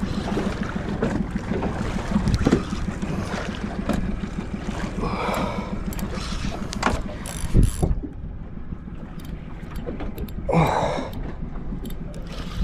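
Fishing reel being worked during the fight with a large fish, in a small boat with its outboard switched off. Short clicks run through it, and there are two brief swells about five and ten seconds in.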